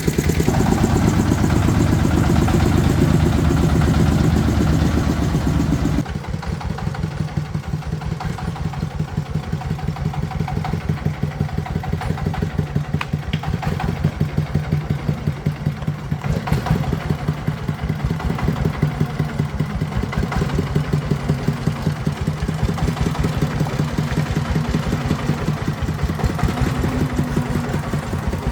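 A vehicle engine running with a fast, even pulse. About six seconds in, it drops suddenly to a quieter, thinner sound and keeps running steadily.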